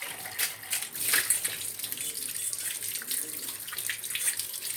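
Tap water running into a sink with irregular splashing as a pot is rinsed clean of dishwashing liquid.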